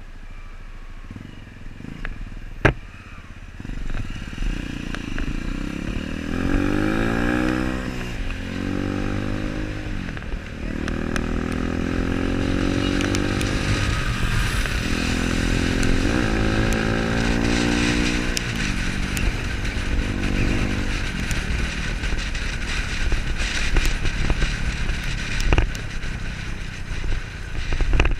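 Motorcycle engine accelerating, its pitch climbing and then dropping back several times as it shifts up through the gears.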